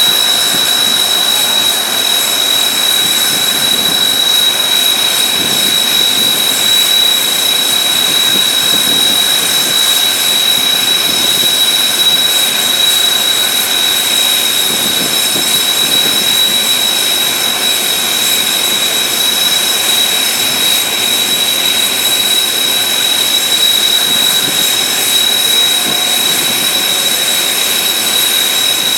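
Kawasaki T-4 jet trainers' twin turbofan engines running steadily at ground idle: a constant high-pitched whine over an even rushing noise, with no change in pitch or level.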